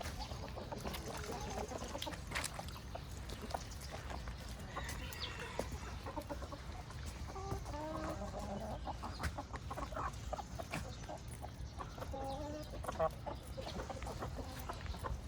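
Hens clucking: soft, short clucks that come in clusters around the middle and again near the end, with scattered light ticks and a steady low rumble underneath.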